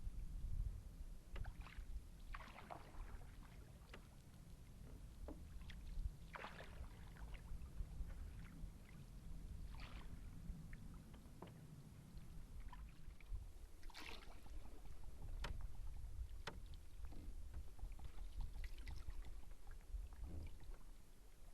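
Canoe being paddled: water swishes and splashes from paddle strokes every few seconds, with scattered small knocks, over a low steady rumble.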